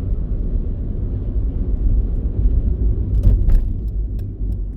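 Steady low rumble of a car in motion, road and engine noise, with a few short clicks about three and a half seconds in.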